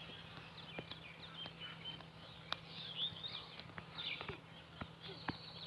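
Faint open-air ambience with distant birds chirping now and then and scattered light ticks over a low steady hum.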